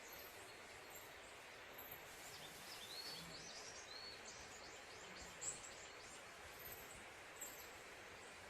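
Faint outdoor ambience: a steady soft hiss, with a bird chirping a few times a few seconds in, and faint high-pitched insect pulses repeating about once a second.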